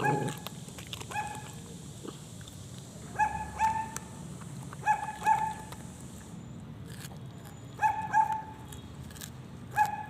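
Small dog yipping: short high-pitched yips, mostly in quick pairs, repeating every one to three seconds.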